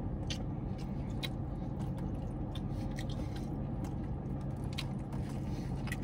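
A man chewing a mouthful of Arby's roast beef and cheese sandwich, with scattered wet mouth clicks, over a steady low hum.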